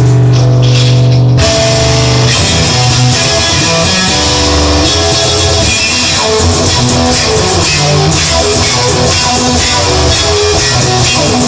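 Instrumental rock music with guitar, bass and drums, no singing. A held chord rings out for the first second and a half, then the band plays on with a steady beat.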